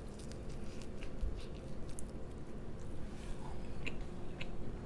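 Close-up chewing and biting of food, with scattered short wet clicks and crunches.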